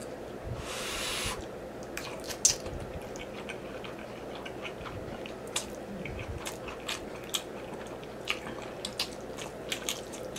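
A person eating spaghetti with meat sauce: a short slurp of noodles about a second in, then wet chewing with many small, sharp mouth clicks and smacks.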